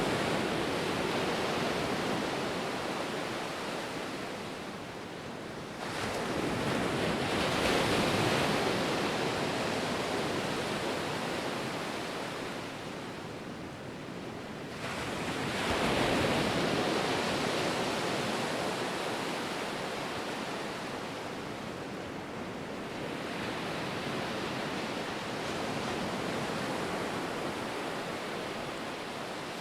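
Ocean waves breaking and washing on the shore, a steady hiss of surf that swells with each wave; two waves crash in sharply, about six seconds in and again about fifteen seconds in.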